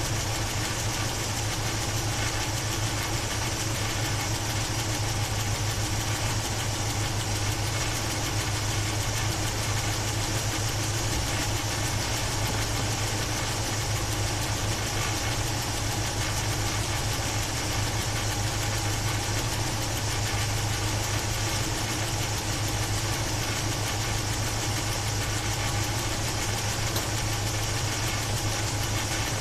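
Chevrolet 350 small-block V8 idling steadily, heard from the open engine bay. It carries a top-end noise that the owner describes as a kind of bad valve sound, not lifter tick, and hopes may only be old gas.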